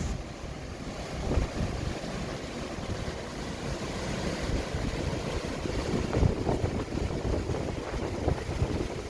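Sea waves washing and breaking, with wind buffeting the microphone in uneven low gusts.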